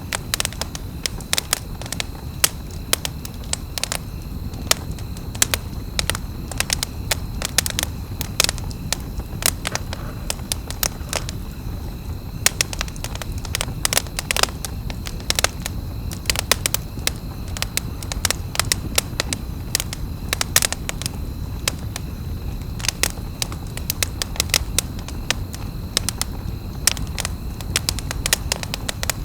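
Wood campfire crackling, with sharp irregular pops coming several times a second over a steady low rush of burning.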